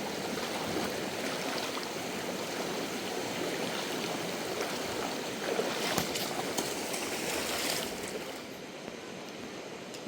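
River water rushing, a steady noise that falls in level about eight seconds in, with one sharp click a little before.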